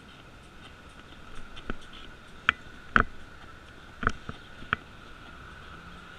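Bicycle ride noise: a faint steady ticking with half a dozen sharp clicks and knocks in the middle, the loudest about three seconds in.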